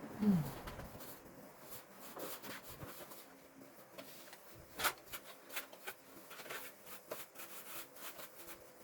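Light handling noises of hands at work: scattered small clicks and taps with faint rubbing, the sharpest click about five seconds in, and a brief falling voice-like sound at the very start.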